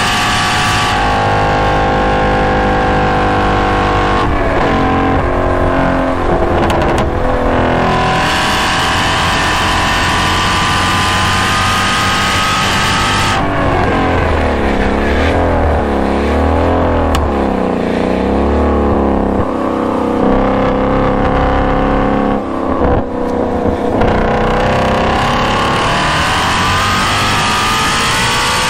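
2016 Shelby GT350's 5.2-litre flat-plane-crank V8 at full track pace through a GT350R exhaust, heard close to the tailpipe. Its pitch drops early on as the driver comes off the power and downshifts, wavers up and down through the middle, then climbs steadily under hard acceleration near the end.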